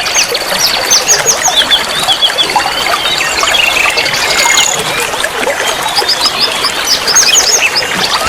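Several songbirds chirping and singing in quick runs of short, high notes over a steady trickle of running water.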